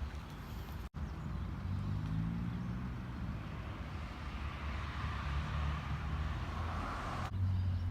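A car engine running close by, its sound building over several seconds before cutting off abruptly about seven seconds in. There is a brief gap in the sound about a second in.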